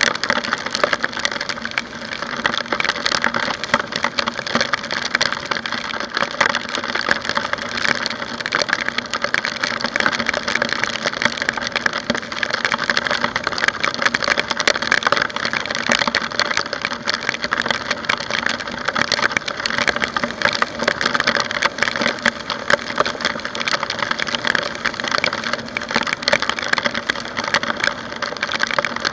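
Continuous dense crackling of rain and wind on a motor scooter's rear-mounted camera while riding, over a faint steady hum from the scooter's engine.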